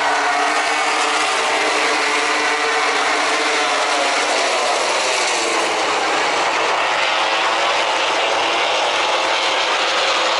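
A pack of MotoGP racing motorcycles running at high revs, many engines overlapping, their pitch rising and falling as they accelerate and brake through the corners.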